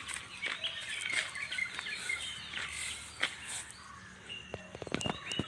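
Birds chirping with many short calls, with a quick run of sharp clicks near the end.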